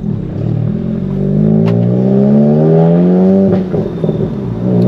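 Volkswagen Golf GTI Mk7's turbocharged 2.0-litre four-cylinder, newly fitted with an IS38 big turbo, heard from inside the cabin as the car pulls away. The engine note rises steadily for about three and a half seconds, breaks off briefly at a gear change, then climbs again.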